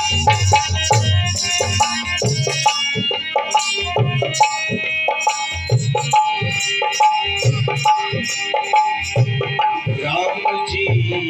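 Instrumental passage of a Hindu devotional bhajan. Hand drums play a steady rhythm of deep strokes under a sustained melody instrument, with no singing.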